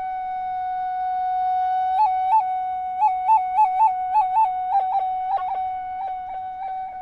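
Solo recorder holding one long high note, then breaking it from about two seconds in with quick upward flicks, about three a second, and near the end with short downward dips, in a literal imitation of birdsong.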